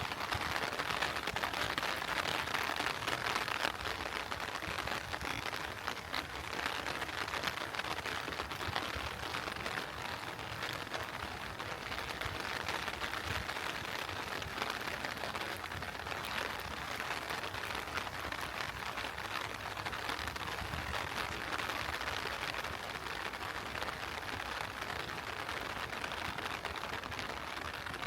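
Steady heavy rain falling, a dense, even patter of drops.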